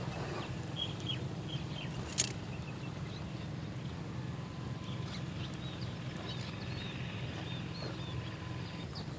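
Small birds chirping in short, high cheeps scattered through, over a steady low hum, with one sharp click about two seconds in.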